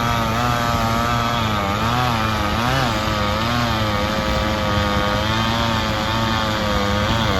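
Chainsaw engine running continuously, its pitch wavering slightly up and down as the throttle and load change.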